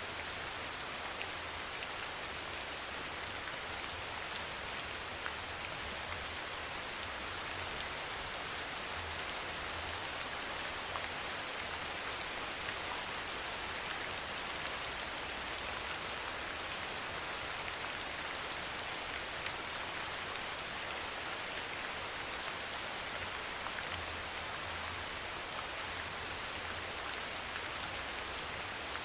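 Steady soft rain falling: an even hiss with faint scattered drop taps.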